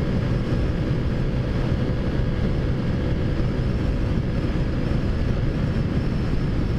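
Taotao Zummer 50cc four-stroke scooter running at a steady cruise, its engine note mixed with road and wind noise.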